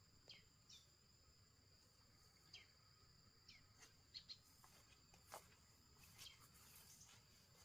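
Near silence with faint insects trilling steadily at a high pitch, and a dozen or so faint, short, falling chirps scattered throughout.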